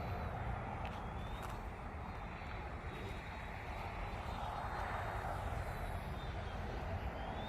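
Faint whine of an Eachine E110 mini RC helicopter's motors and rotor in flight, its pitch drifting a little up and down, over a steady low rumble.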